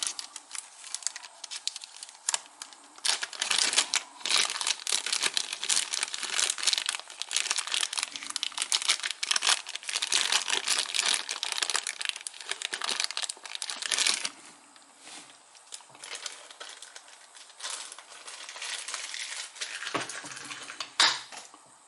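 Small plastic packet crinkling as it is handled, a dense run of crackles for about fourteen seconds, then fainter, scattered rustles. A single sharp click sounds near the end.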